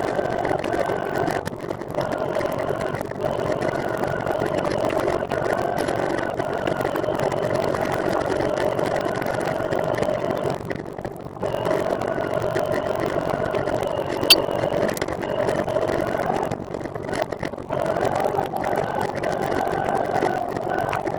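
Steady whirring hum of a recumbent trike in motion, easing off briefly twice, with one sharp tick about fourteen seconds in.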